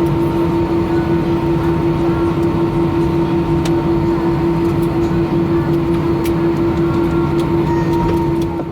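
Steady cabin hum inside an Airbus A318 parked at the stand after landing, a constant drone with one clear steady tone, while the crew disarm the doors. It cuts off abruptly near the end.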